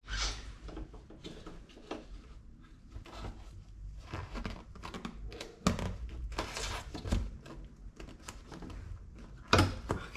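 Hand work on a car door's window mechanism: irregular clicks, knocks and scraping of plastic and metal parts being handled, with one louder knock near the end.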